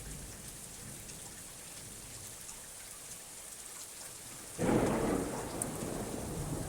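Steady rain falling, then, about four and a half seconds in, a sudden loud crack of thunder that rumbles on.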